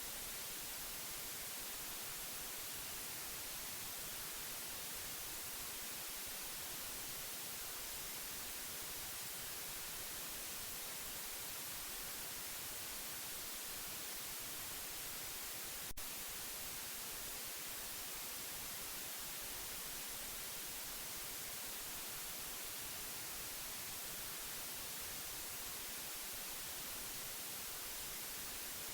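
Steady white noise: an even, unbroken hiss, strongest in the highs, with one brief click about halfway through.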